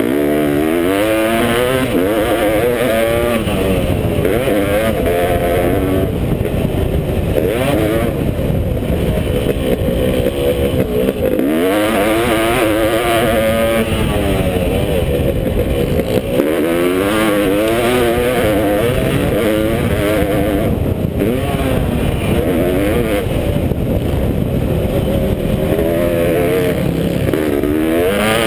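Honda CR500 two-stroke single-cylinder motocross engine revving hard. Its pitch climbs in long sweeps as the throttle is held open, then drops back when the rider shifts or backs off, over and over.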